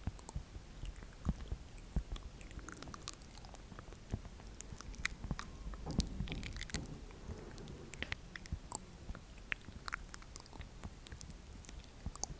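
ASMR mouth sounds close to the microphone: irregular wet clicks and smacks, scattered unevenly with no rhythm.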